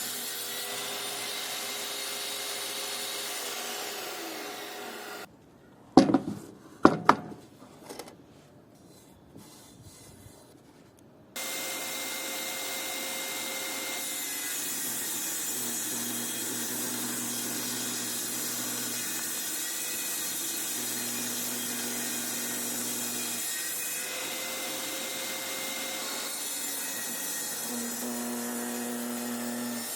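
Bandsaw running and cutting through scrap pallet wood: a steady whirr with held tones whose pitch shifts as the blade takes the cut. It stops abruptly about five seconds in, a few sharp wooden knocks follow, and the saw runs and cuts again from about eleven seconds on.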